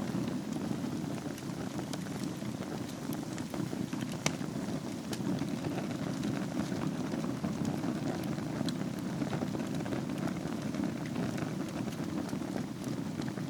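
Wood fire burning in a fireplace: a steady low rush of flame with scattered crackles and pops, one sharper pop a little after four seconds in.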